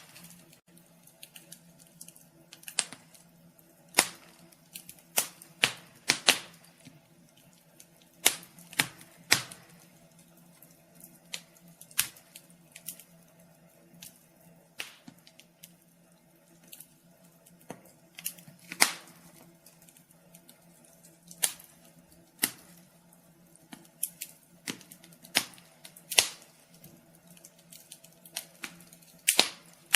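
Wood fire crackling in a fireplace: irregular sharp pops and snaps, often several a second and a few louder ones, over a faint steady hum.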